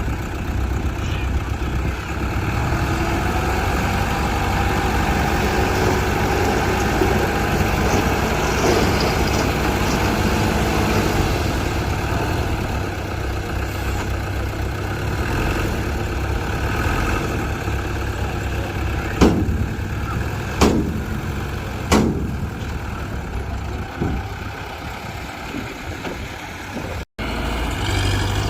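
Heavy diesel earthmoving machinery running steadily, with three sharp knocks about a second and a half apart in the second half.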